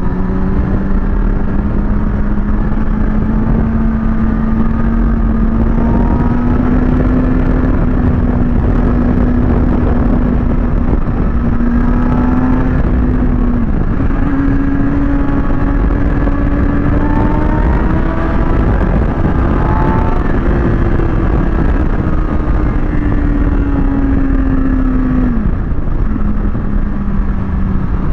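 Kawasaki ZX-6R sportbike's inline-four engine running at steady road speed under heavy wind rush. Its revs climb slowly, with two brief sharp drops in pitch, one about halfway through and one near the end.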